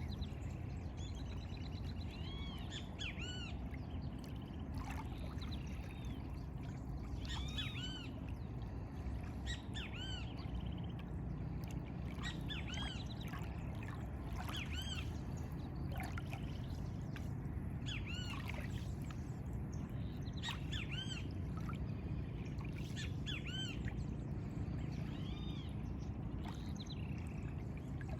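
Birds calling over and over in short, arched, squawky chirps, coming in clusters every second or two, over a steady low rush of background noise.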